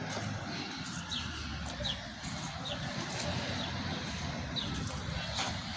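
Steady distant traffic rumble, with a small bird giving short, high, falling call notes about once a second.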